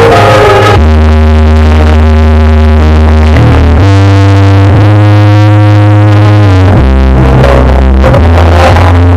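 Very loud DJ remix music played through a 'horeg' street sound system: sustained synthesizer chords over heavy bass notes that shift every few seconds.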